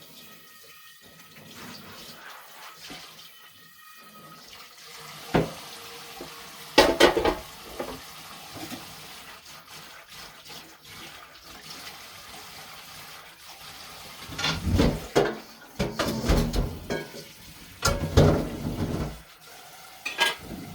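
Washing dishes at a kitchen sink: tap water running, with dishes and pots knocking and clattering, a couple of times early on and then in a busy run of clatters toward the end.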